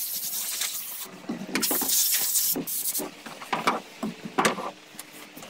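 Handheld power grinder working the boat's fiberglass, running in uneven, high-pitched spells with scraping contact noise, loudest about a second in until about three seconds in.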